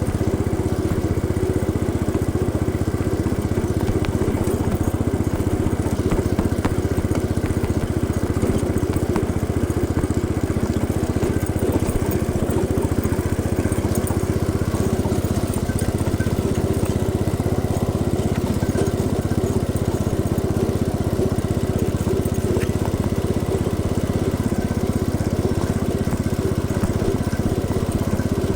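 1971 Cub Cadet 106 garden tractor's single-cylinder Kohler engine running steadily under way.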